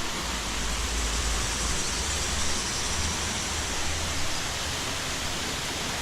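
Waterfall's steady rush of falling water, with a deeper rumble in the first few seconds.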